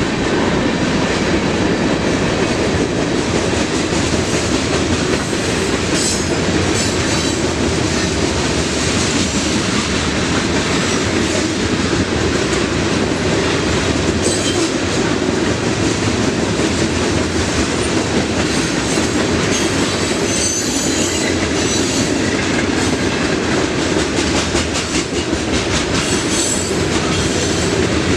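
Freight train cars rolling past close by: a steady rumble of wheels clacking over the rail joints, with a few brief high wheel squeals.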